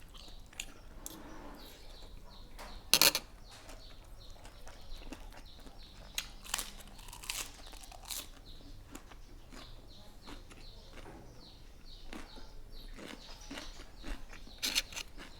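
Close-up eating sounds: a person chewing and crunching mouthfuls of Thai spicy seafood salad with fresh squid, with scattered small clicks. A sharp knock comes about three seconds in, and louder crackly bursts follow a few seconds later and again near the end.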